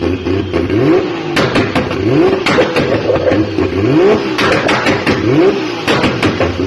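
Car engine and exhaust revved over and over in quick blips, the pitch rising and falling about once or twice a second, with sharp cracks and pops between the revs.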